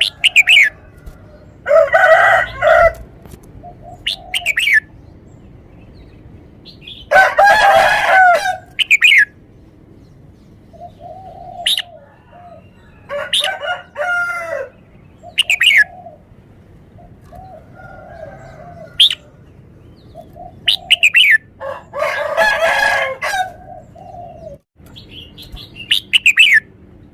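Red-whiskered bulbul singing: four loud, rich, warbled song phrases of a second or two each, a few seconds apart, with short high falling chirps and softer notes between them.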